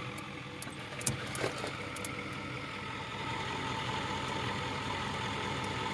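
A vehicle engine idling steadily, with a few sharp clicks and a louder snap about a second in as jumper cables are put across the glow plug relay of a 1994 Ford F250 Power Stroke.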